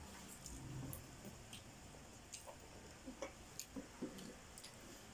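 Faint, scattered small clicks and smacks, a few each second, from children chewing and eating burgers, over a quiet room hiss.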